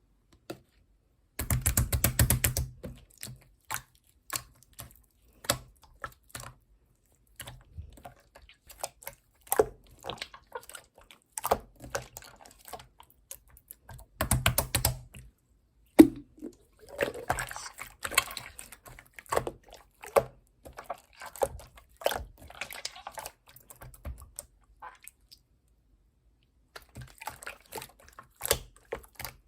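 Slime being squeezed and pressed by hand, making irregular sticky clicks and small wet pops, with two louder bursts of dense crackling.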